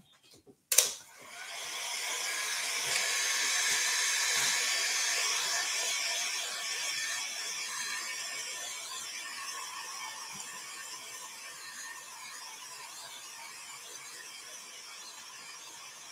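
A hair dryer clicks on about a second in and runs steadily, drying the freshly painted background. Its noise slowly grows quieter toward the end.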